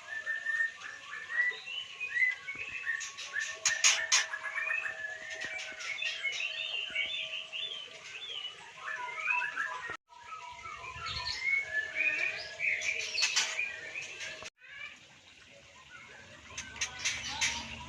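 White-rumped shamas chirping and singing in quick varied phrases, with a few sharp clicks along the way. The sound cuts out abruptly twice.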